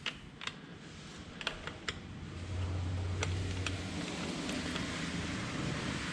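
Small sharp clicks and taps of a motorcycle brake fluid reservoir cap being handled and fitted. From about two seconds in, a louder steady low hum with a hiss sets in and carries on.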